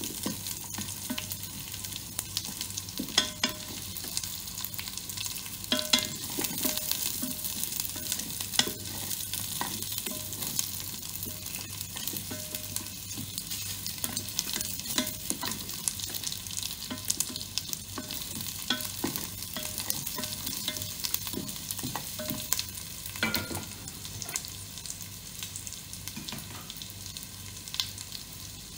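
Garlic, ginger and whole spices sizzling in hot oil in a multicooker's inner pot, stirred with a wooden spatula that scrapes and knocks against the pot now and then.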